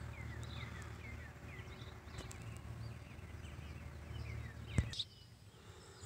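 Small birds chirping faintly over a low steady outdoor rumble, with a single sharp click about five seconds in.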